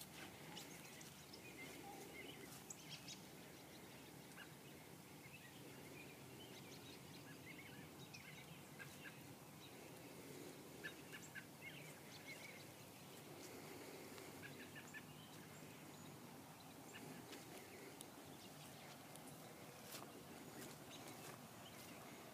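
Near silence with faint, scattered bird calls: short chirping notes, often in small clusters.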